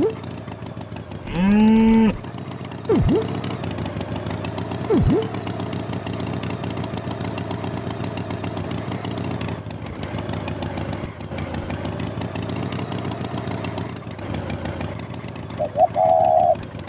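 A cartoon cow moos once, the call rising and then held, about a second in. After it an engine runs steadily, with two short swooping sound effects and a brief higher tone near the end.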